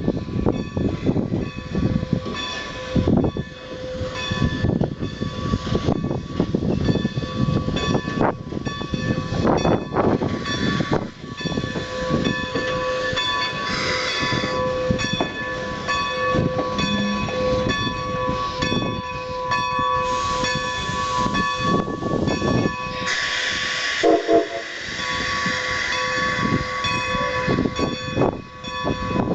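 Steam locomotive, a 2-10-0 decapod, moving during a run-around with its bell ringing steadily, struck over and over, under the noise of the engine. About 23 seconds in there is a short, louder burst of hiss with a brief pitched sound.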